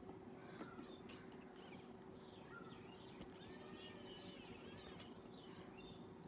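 Faint birds chirping and twittering over a steady low hum.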